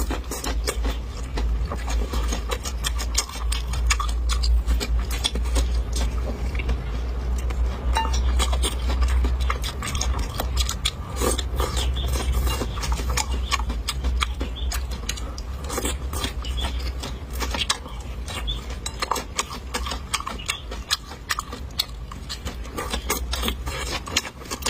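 Close-miked chewing of pan-fried chili peppers: dense, irregular wet clicks and crunches from the mouth, with a few utensil clicks, over a steady low rumble.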